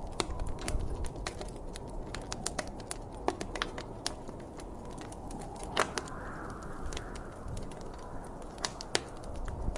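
Wood fire crackling: irregular sharp pops and snaps, the loudest about six seconds in and again near nine seconds, over a steady low rushing noise.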